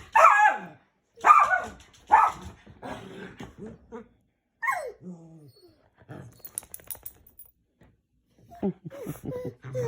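Pet dogs barking during play: three loud barks about a second apart, then a shorter falling yelp, followed by quieter scattered sounds and another bark near the end.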